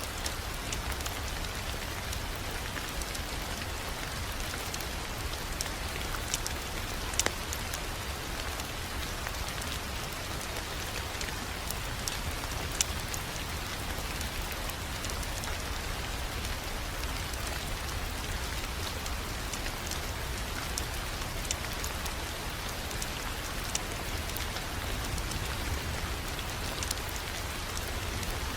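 Wood fire crackling: a steady hiss and low rumble with scattered sharp pops, a few of them louder.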